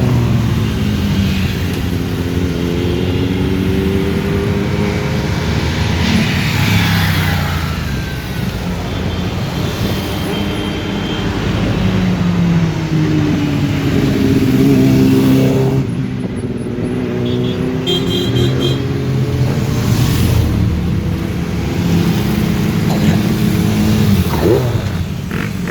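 Motorcycle engines running and revving as bikes ride past, the engine pitch rising and falling again and again, with more than one engine heard at once.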